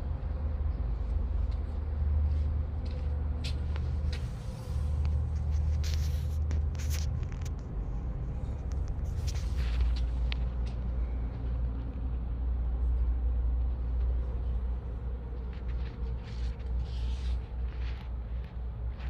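Heavy truck's diesel engine running with a steady low rumble, with a few scattered short clicks and knocks over it.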